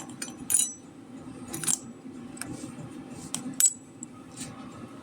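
Small steel wheel parts (bearings, a thrust washer and the axle) clinking against each other as they are handled, about six light metallic clinks, each with a short ring. A steady low hum runs underneath.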